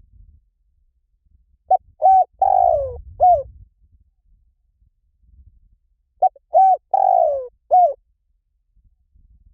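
Spotted dove cooing: two identical four-note phrases about four and a half seconds apart, the third note of each longest and falling in pitch.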